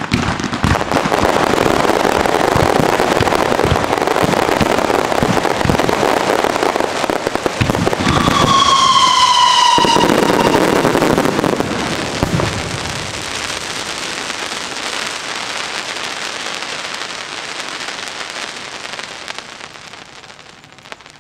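Aerial fireworks going off in a dense, continuous barrage of crackling bangs. A single whistle, falling a little in pitch, cuts through about eight seconds in. The crackle then thins out and fades away as the show ends.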